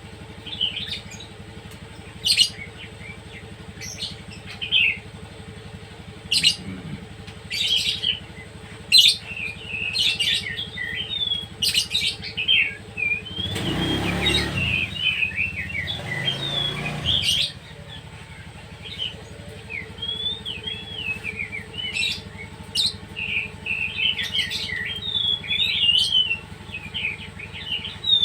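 Pet songbirds chirping and calling repeatedly in short whistles and sharp chirps. Around the middle, a vehicle passes for about four seconds, swelling and fading under the birdsong.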